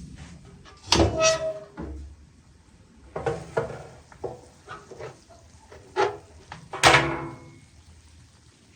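Kitchenware handled during cooking: a series of clinks and knocks, some of them ringing briefly, with the loudest strikes about a second in and again near seven seconds.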